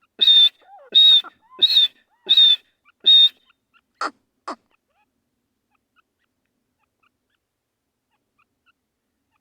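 Male grey francolin (teetar) calling: five loud, evenly spaced whistled notes in about three and a half seconds, then two short notes, after which the calling stops.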